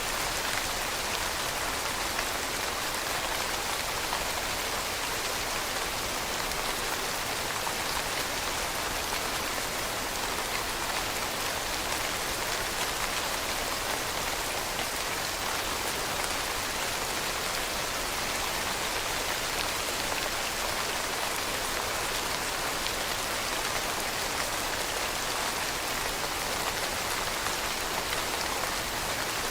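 Steady rainfall pattering on a surface, an even, unbroken hiss.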